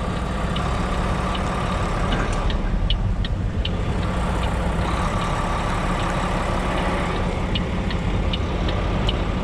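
Semi truck's diesel engine running steadily at low speed while the rig is backed up, with light irregular ticks on top.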